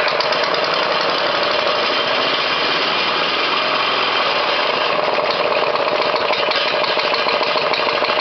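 Briggs & Stratton 11.5 hp four-stroke engine running steadily with a fast, even firing rhythm, just after catching on a cold start.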